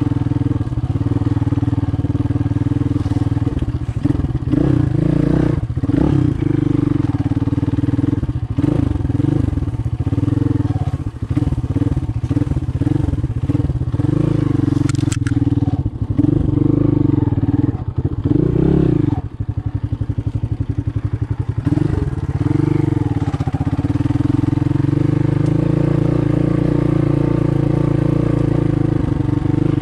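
Motoland Legend 300 motorcycle engine running under way on a rough trail, its revs rising and falling with the throttle. Around twenty seconds in it drops to a slow low-rev chug, then picks up and runs steadily.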